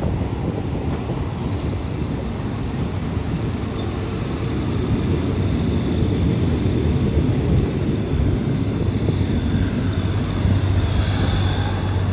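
Passenger train running, heard from an open carriage window: a steady rumble of wheels on rails, with a faint high whine that comes in during the second half.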